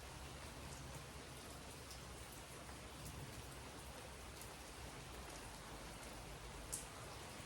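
Steady, fairly faint rain falling, with scattered drops ticking close by and one sharper drip near the end.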